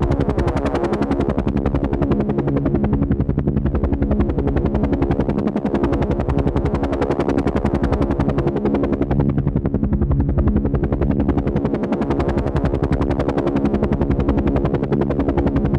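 Helicopter sound: a rapid, even rotor chop over a steady engine drone, repeating in a loop about every three seconds.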